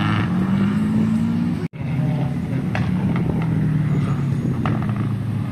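Car engine running steadily, its pitch drifting gently up and down. The sound breaks off for an instant about a second and a half in, then carries on.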